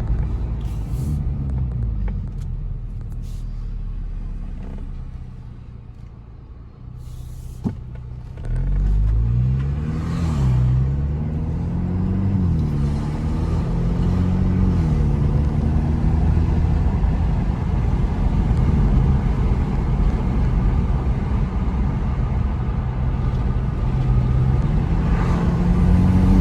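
Hyundai Elantra N Line's 1.6-litre turbo four-cylinder, breathing through an open cone-filter cold air intake, accelerating on the road. The engine runs quietly at first, then about a third of the way in it pulls hard. Its pitch climbs and drops three times as the dual-clutch gearbox shifts up, and then it settles into steady cruising.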